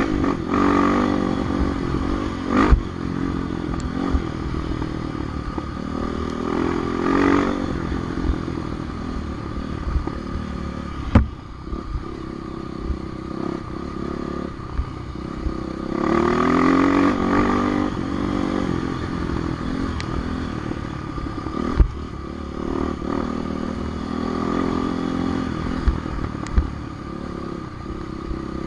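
Off-road dirt bike engine running, its pitch rising and falling as it is revved up and eased off several times, with a few sharp knocks and some clatter along the way.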